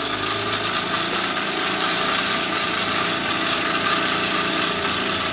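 Small model engine running fast while driving a belt-driven Baker fan, a steady rapid mechanical running sound with the fan's rushing hiss; the fan is putting a working load on the engine.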